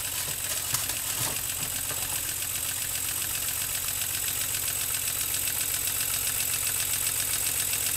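Six-cylinder model radial steam engine, run on compressed air at about five pounds of pressure, turning over steadily with a fast, even patter of exhaust puffs. It grows slightly louder over the seconds.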